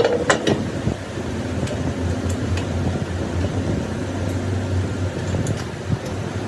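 A machine running with a steady hum, with a few sharp metallic clinks right at the start.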